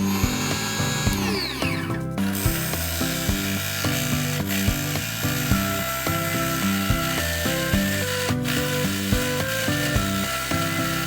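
Background music with a steady beat over a benchtop drill press boring into wood. A high whine falls in pitch and cuts off abruptly about two seconds in.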